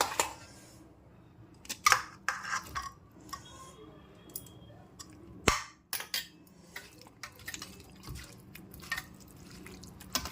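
Irregular clinks and knocks of dishes and utensils being handled.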